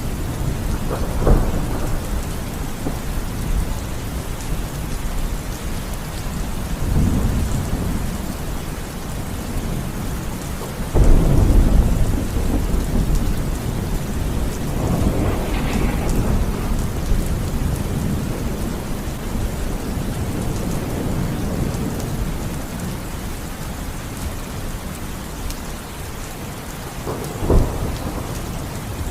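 Steady rain with repeated thunder. A sharp crack comes about a second in and another near the end, with deeper rumbles in between; the loudest and deepest roll comes about eleven seconds in.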